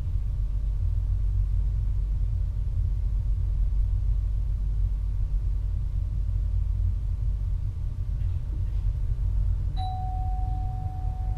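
Steady low rumble of an NS VIRM double-deck electric train running, heard inside the driver's cab. Near the end a click is followed by a clear chime tone that rings on without stopping.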